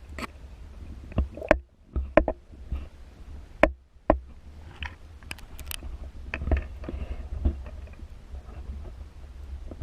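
Irregular knocks and clicks from handling inside a kayak, about nine sharp ones spread unevenly, over a steady low rumble.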